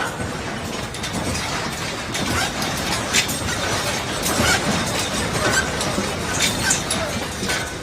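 Objects rattling and clattering as a strong earthquake shakes them. There is a steady low rumble underneath, and sharp clinks and knocks come thicker from about three seconds in.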